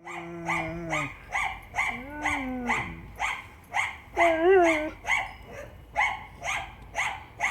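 Husky vocalizing: short, wavering howls three times over a steady run of sharp barks, about two a second.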